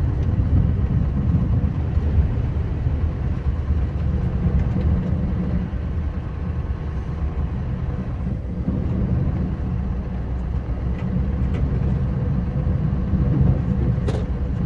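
Scania R560 snowplow truck running while plowing, a steady low rumble from its V8 engine and drivetrain, with a few faint clicks near the end.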